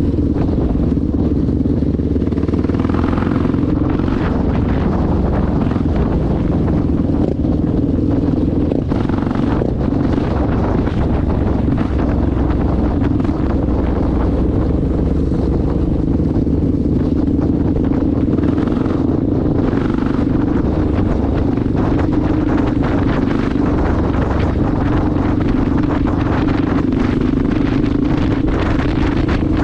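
Honda XR650L dual-sport motorcycle running steadily while being ridden, its engine note holding fairly even, with wind buffeting the microphone.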